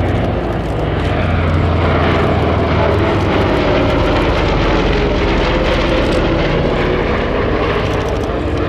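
Lockheed Super Constellation's four Curtiss-Wright R-3350 18-cylinder radial engines running loud and steady as the airliner flies past.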